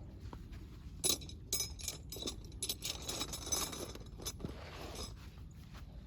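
A quick run of light clinks and rattles of hard gear being handled, starting about a second in and dying away after about three and a half seconds.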